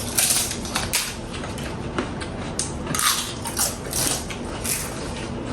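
A person chewing and crunching food, with a run of irregular crunches a few times a second.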